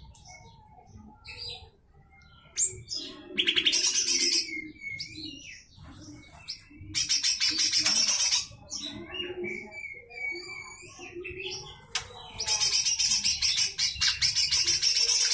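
Cucak hijau mini leafbird giving its harsh, rattling 'besetan kasar' calls: three long bursts of rapid rasping notes, with short whistled and chirping notes between them. The last burst is the longest and runs on near the end.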